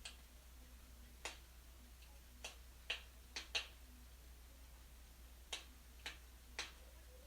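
Wood fire burning in a fireplace, crackling with about nine sharp, irregularly spaced pops over a few seconds, the loudest cluster in the middle.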